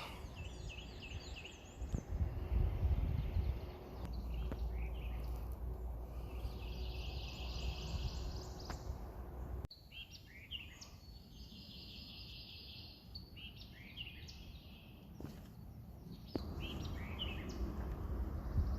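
Wild birds chirping: short repeated calls and a few held, buzzy trills, over a low rumble that drops away abruptly about ten seconds in.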